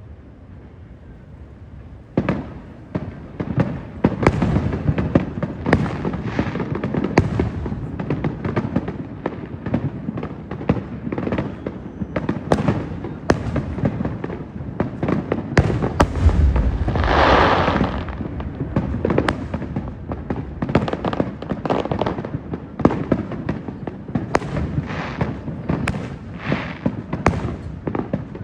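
Fireworks going off: a low rumble, then about two seconds in a rapid barrage of sharp bangs, several a second, with a longer hissing, crackling burst about two-thirds of the way through.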